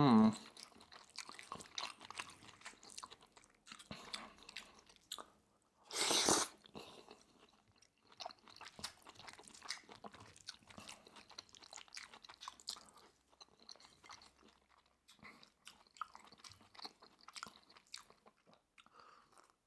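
Close-miked chewing and biting of sukiyaki beef on rice, with many small wet mouth clicks and soft crunches. A short hummed 'mmm' right at the start, and one louder, brief noisy burst about six seconds in.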